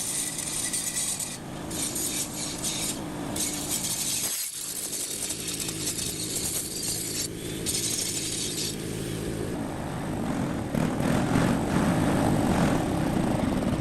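Small generator-set engine running, freshly restored, louder in the last few seconds.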